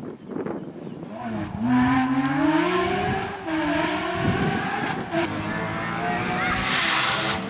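Porsche rally car engine revving hard as it comes closer, its pitch climbing and dropping back at each gear change, getting louder from under two seconds in. Near the end a hissing noise rises over the engine.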